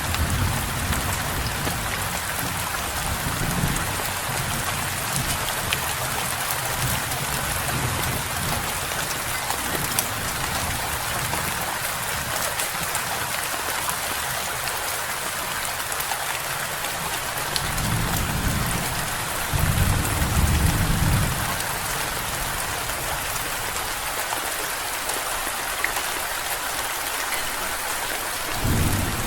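Steady rain falling. Low thunder rumbles swell at the start, twice about two-thirds of the way through, and again at the very end.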